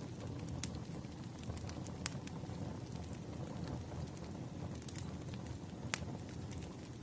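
Crackling campfire ambience: a steady low rumble of burning wood with scattered sharp pops, three of them standing out.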